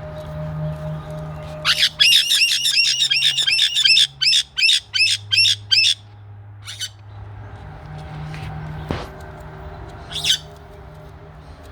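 Caique parrots squawking: a fast run of shrill, repeated calls, about four a second for some four seconds, then a couple of single calls later on.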